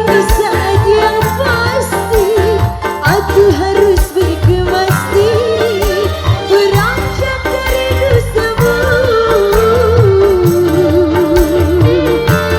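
Live dangdut band playing an instrumental break: a wavering, trilled lead melody over hand drums and bass.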